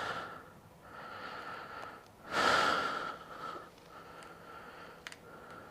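A man breathing through his nose, with one loud exhale about two and a half seconds in and a few faint clicks.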